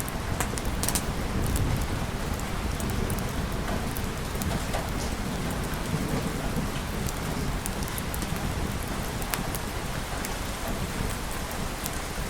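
Steady rainfall with low rolling thunder underneath that swells and fades, and scattered sharp ticks of drops or crackles.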